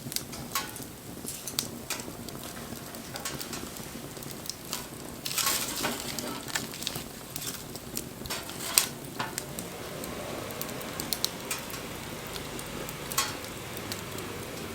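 Wood fire crackling, with sharp pops throughout and a louder stretch of hissing about five seconds in.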